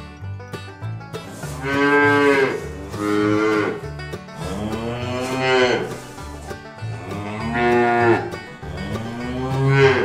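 Cows mooing, about five long calls in a row, each rising and then falling in pitch. Banjo-led bluegrass music plays underneath.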